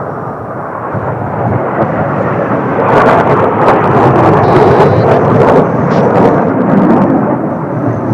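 Jet roar of Blue Impulse Kawasaki T-4 trainers passing, building to a peak about three seconds in with sharp crackles, holding for a few seconds, then fading slightly near the end.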